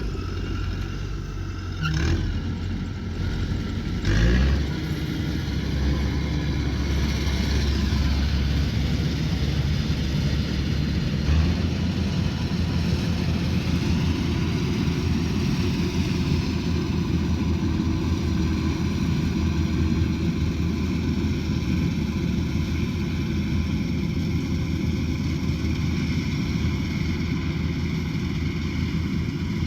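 Combine harvester engine running steadily under load, with two brief louder bursts about 2 and 4 seconds in.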